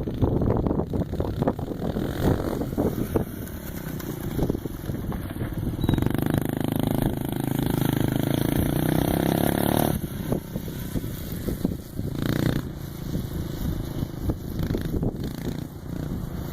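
Dirt bike engine running, held at steady higher revs from about six to ten seconds in, then easing back off.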